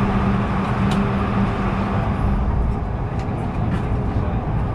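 Steady rumble and hiss of an Airbus A220-100 passenger cabin on the ground after landing, with a low steady hum that stops about two seconds in.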